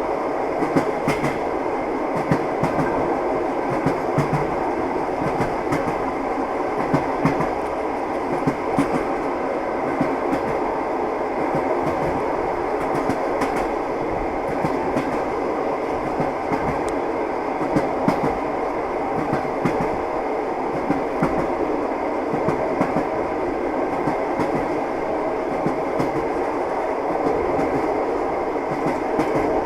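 A train running steadily, with its wheels clattering on the rails over a continuous rumble and short knocks scattered through.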